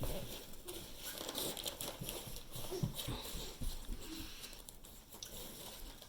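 Faint handling sounds, small clicks and rustles of a candy bag and wrappers, with a few short, soft vocal sounds from a toddler.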